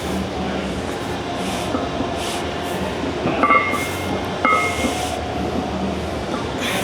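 Steady low rumble of gym background noise, with two short metallic rings about a second apart midway through, as the loaded barbell's plates clink during hip-thrust reps.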